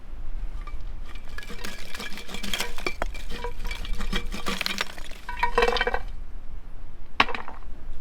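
A utensil stirring and clinking against cookware: a quick run of ringing clinks for about five seconds, then a single sharper knock near the end.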